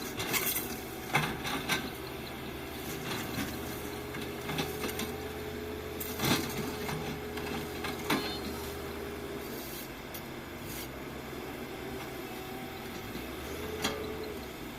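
Excavator running, a steady engine hum under a held hydraulic whine that rises and falls slightly in pitch, with several sharp knocks along the way.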